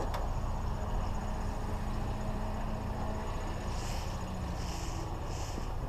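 Vehicle engine running steadily, a low hum. A few short high chirps come near the end.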